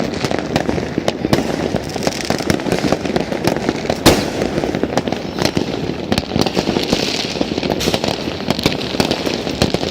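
Fireworks and firecrackers going off all at once in a dense, unbroken barrage of bangs and crackling, with one especially loud bang about four seconds in.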